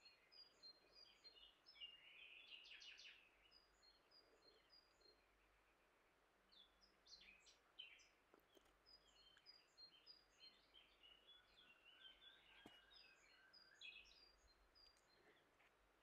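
Faint songbird singing: quick high chirps and rapid trills, in bursts with a short lull about five seconds in.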